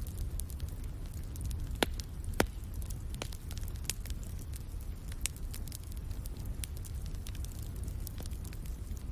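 Wood fire crackling in a fireplace: scattered sharp pops and snaps over a steady low rumble, with two louder pops about two seconds in.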